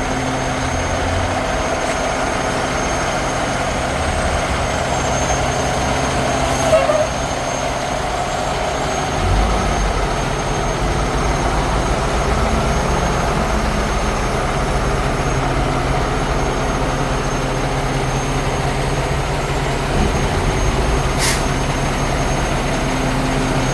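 Cummins ISX diesel engine of a Peterbilt 365 dump truck running steadily. The low rumble deepens about nine seconds in, and there are two short clicks, one about seven seconds in and one near the end.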